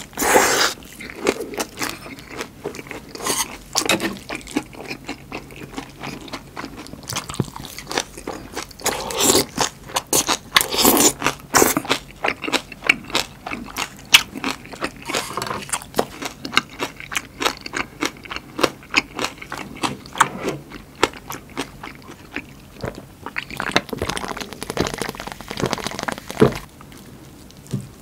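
Close-miked chewing of crispy, batter-fried giant chili peppers: an irregular run of crunches and crackles with wet mouth sounds, easing off briefly near the end.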